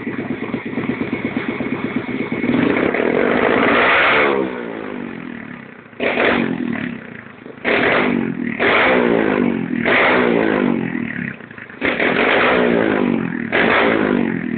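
Tuned pit bike engine revved hard in repeated throttle blips. A first long rev builds over about four seconds, then about six sharp blips follow, each falling away as the revs drop.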